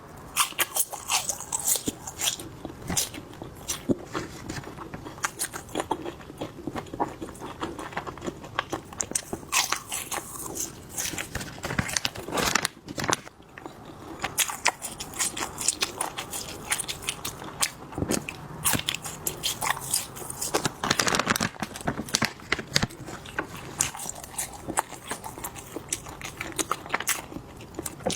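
Close-miked mukbang eating: biting into and chewing spicy skewered food, a dense run of crunchy, clicky mouth sounds with a short lull about halfway through.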